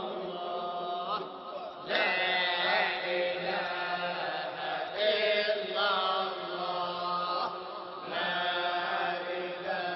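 Sufi dhikr chanting: steady, continuous chanted lines that waver in pitch over a held low tone.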